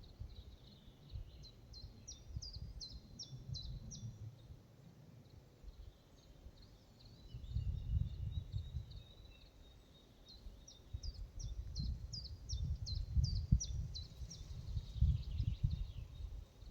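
A small songbird singing twice, each song a quick run of about eight short, high, falling notes. Under it runs a low, gusty rumble of wind on the microphone, the loudest sound, swelling a little past halfway and again near the end.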